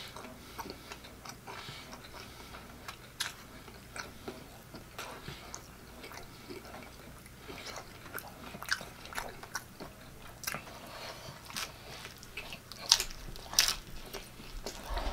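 Close-up chewing of a soft flour-tortilla pork-chop taco: wet mouth clicks and lip smacks go on throughout. A louder bite into the taco comes near the end.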